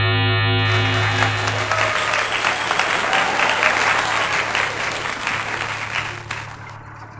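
A sustained musical tone over a low hum for about the first two seconds, giving way to dense applause-like clapping that fades out near the end.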